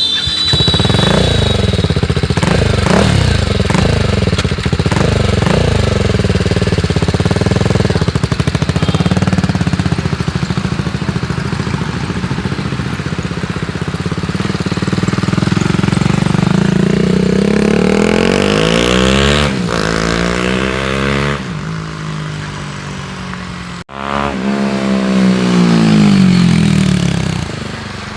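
BMW G310R's reverse-inclined single-cylinder engine through a DominatoR aftermarket exhaust. It is revved in repeated quick blips for the first several seconds, then runs more steadily, with sweeping rises and falls later on that sound like the bike passing by.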